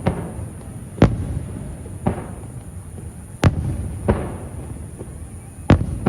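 Aerial fireworks shells bursting one after another, about five sharp booms a second or so apart, each followed by a rolling echo and a fading crackle.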